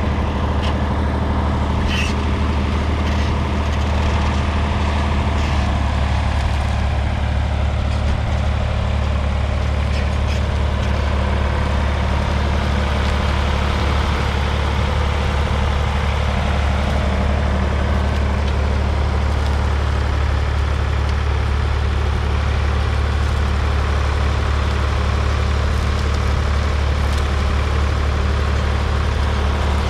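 Ford 3000's three-cylinder 2.9-litre diesel engine running steadily with an even, deep hum.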